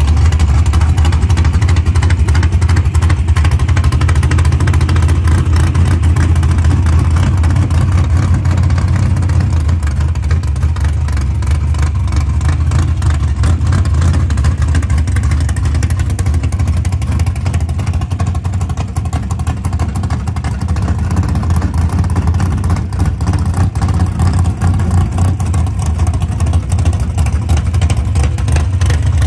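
V8 engine of a 1956 Chevy drag car running loudly at a steady idle, its exhaust pulses fast and even, with no revving.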